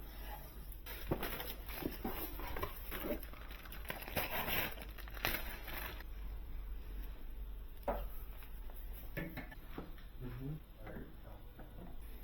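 Scattered clicks, taps and rustling of small parts and packaging being handled during computer assembly.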